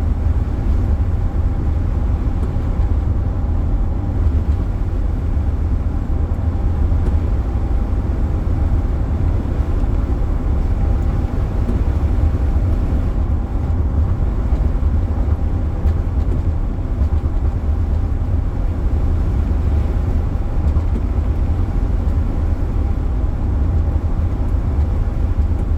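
Steady road and engine noise heard inside a car cabin while driving at highway speed: an even low rumble with a faint steady hum above it.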